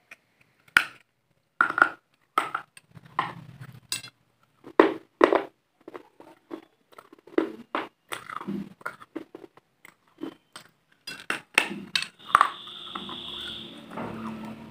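Close-miked biting and chewing of a crunchy white food, with sharp crunches coming at irregular intervals. A steady high tone sounds for about two seconds near the end.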